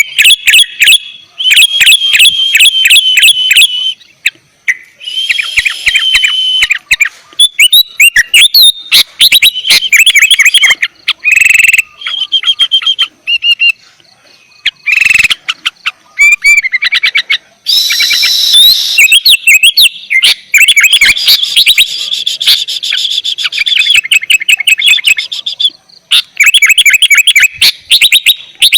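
Sooty-headed bulbul (kutilang) singing loudly and without letup: runs of quick chirps and whistled phrases broken by short pauses, with a couple of harsher notes about halfway through.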